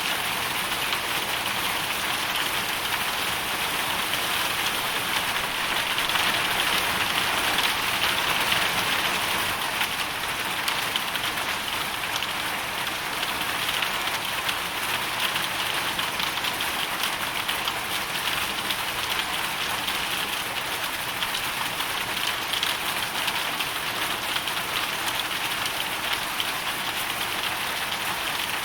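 Hail storm: hailstones and rain pelting down in a dense, steady patter of tiny impacts, swelling slightly a few seconds in.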